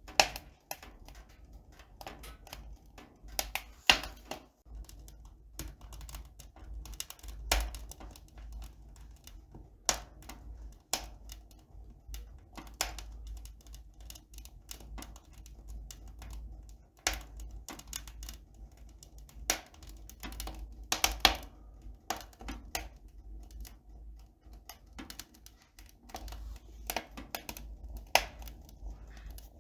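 Irregular light clicks and taps, a few sharper ones standing out, over a low steady hum.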